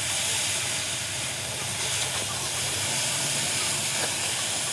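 A steady, even hiss, strongest in the high range, over a low hum.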